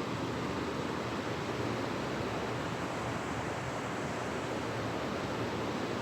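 Creek water flowing steadily, a continuous rushing with no breaks.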